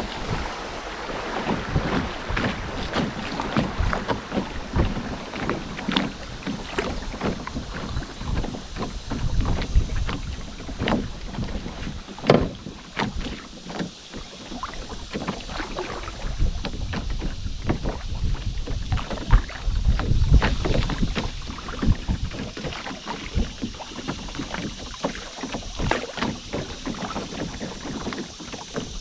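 Canoe being paddled on a river: paddle strokes splashing and dripping, with frequent small knocks against the hull and water moving along it. Low rumbling gusts of wind on the microphone come and go, strongest around two-thirds of the way through.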